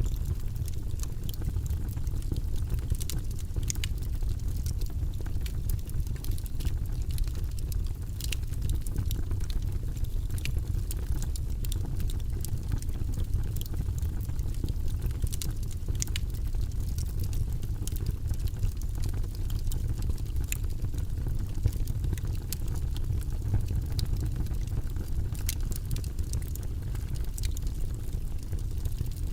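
Wood logs burning in a fireplace: a steady low rumble of flames with scattered sharp crackles and pops.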